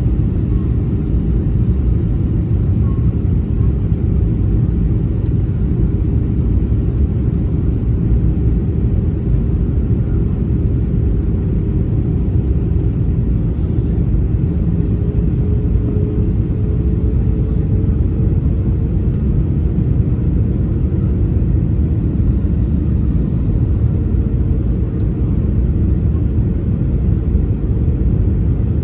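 Jet airliner's engines and airflow making a steady low rumble, with a faint engine tone that rises slightly about halfway through.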